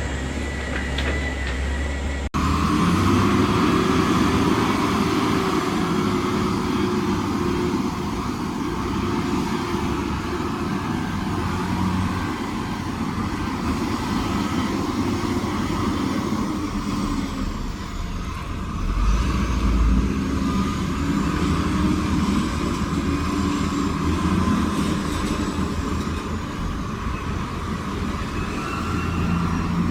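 Heavy construction machinery with diesel engines working steadily under load. There is an abrupt cut in the sound about two seconds in.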